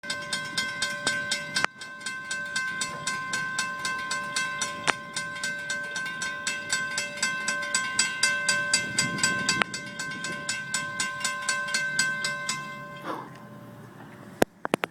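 Freight locomotive air horn blowing one long chord for about thirteen seconds over a fast, regular clicking, then cutting off and leaving the low rumble of the passing train. A few sharp knocks come near the end.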